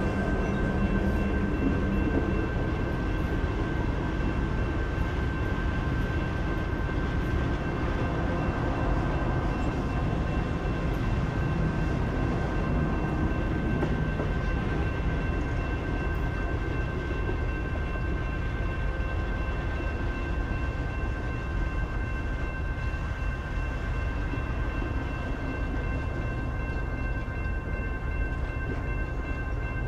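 A long passenger train of private railcars rolling past, with a steady low rumble of wheels on rail. Several steady high-pitched tones ring over it throughout.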